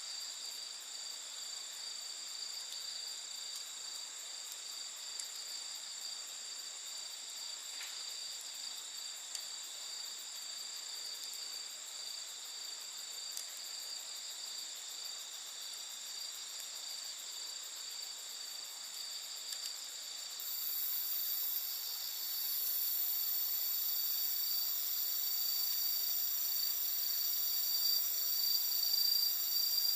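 Crickets and other insects chirring steadily in a high-pitched chorus, with a few faint crackles from the campfire. About two-thirds of the way in, a second, even higher-pitched insect joins and grows louder.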